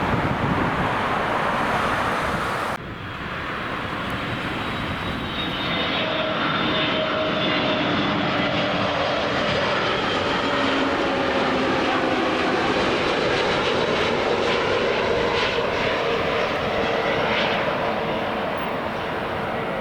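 Jet airliner's turbofan engines passing, a steady rush with several whining tones, some slowly falling in pitch. The sound changes abruptly about three seconds in, from a broader rushing noise to the whining engines.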